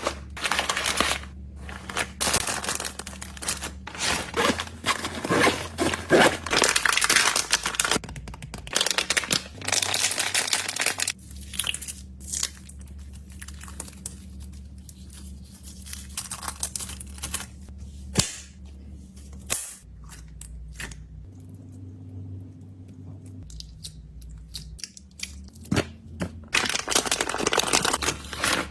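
Plastic snack and candy wrappers being torn open and crinkled by hand. The crinkling is dense for the first eight seconds or so and again near the end, with sparser scattered clicks and rustles in between.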